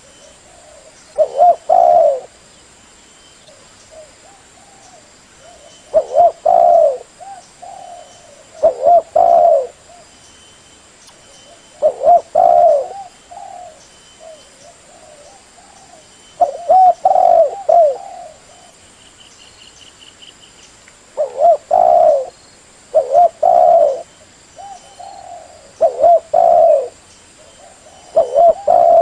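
Spotted dove (tekukur) cooing: short, hoarse multi-note coo phrases repeated every few seconds, about ten in all. This is the clean call used as a lure to draw in wild doves.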